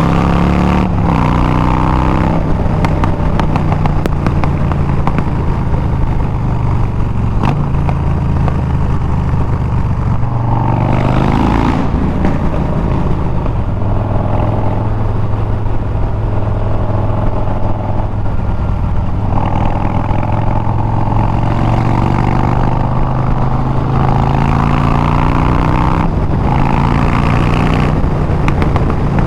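Harley-Davidson Milwaukee-Eight 114 V-twin through Bassani straight pipes while riding: the engine pitch climbs and drops through gear changes a few times, notably around eleven seconds in and near the end, with steady cruising between.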